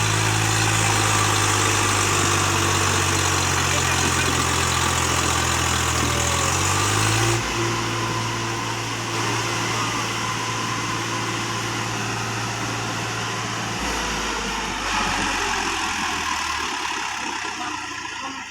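Swaraj 735 FE tractor's three-cylinder diesel engine running steadily. Its pitch shifts about seven seconds in, and it fades away over the last few seconds.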